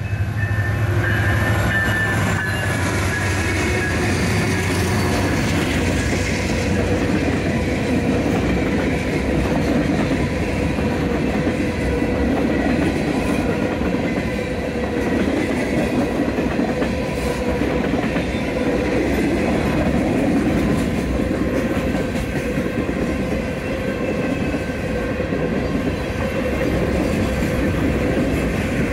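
A westbound freight train of empty grain cars rolling past, steel wheels running on the rails in a steady, continuous noise.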